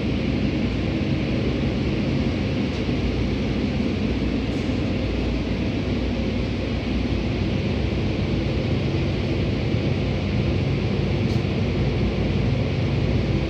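Automatic car wash equipment working over the car, heard from inside the cabin as a steady, loud rumbling hiss of spray and machinery with a low hum underneath.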